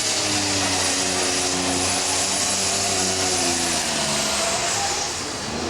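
Diesel super stock pulling tractor engine running hard under load with a high turbo hiss, its pitch slowly sinking as it bogs down, then easing off near the end. The announcer takes a chirping noise at 150 feet on this run for a failing turbocharger.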